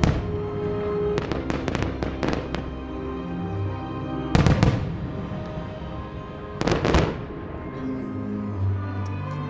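Aerial fireworks shells bursting, with two big booms about four and a half and seven seconds in and a run of sharp crackling reports between about one and two and a half seconds in, over steady music playing throughout.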